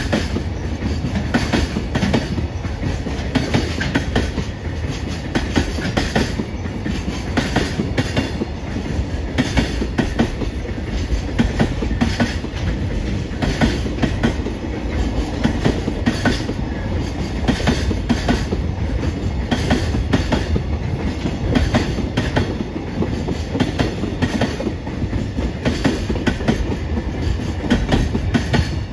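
Freight train of container flat wagons rolling past, its wheels clacking over the rail joints in a steady repeating rhythm over a low rumble.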